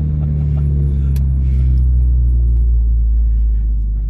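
Ford Focus RS Mk3's turbocharged 2.3-litre four-cylinder droning loudly through a straight-piped exhaust with the muffler removed, held steady while driving, easing off slightly near the end.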